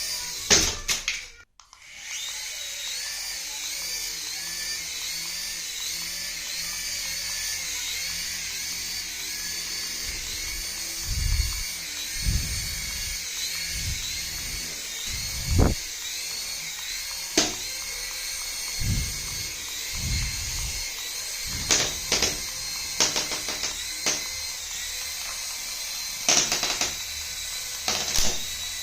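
A battery-powered toy's small electric motor whines high and steady under a warbling electronic tone that repeats about twice a second. Low knocks come several times near the middle, and sharp clicks come near the end.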